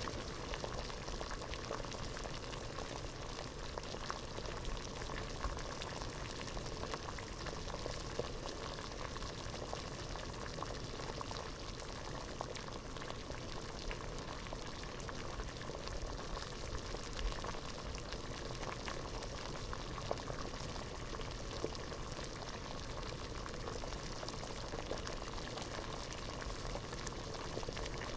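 Water at a rolling boil in a pot: a steady bubbling hiss with many small pops.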